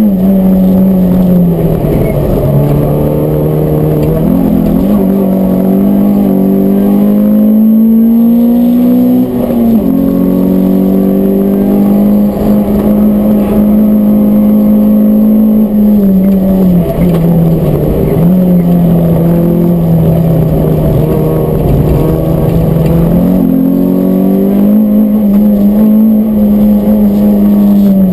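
Peugeot 106 S16's 1.6-litre 16-valve four-cylinder engine running hard at high revs, heard from inside the cabin. Its pitch climbs under throttle and drops sharply several times with gear changes and lifts for corners.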